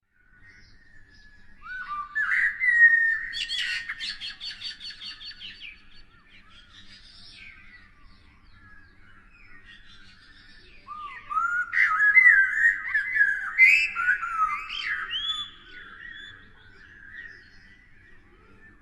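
Birds singing: two loud bouts of chirps and whistled notes, starting about two seconds in and about eleven seconds in, the first including a fast trill of repeated notes, with softer calls between them.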